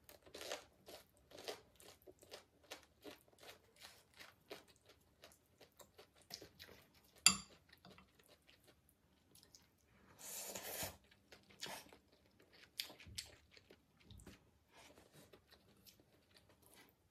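Close-up eating sounds of black bean instant ramen: irregular chewing and small mouth clicks as the noodles are eaten with chopsticks. A single sharp click, the loudest sound, comes about seven seconds in, and a longer noisy sound lasts about a second near ten seconds in.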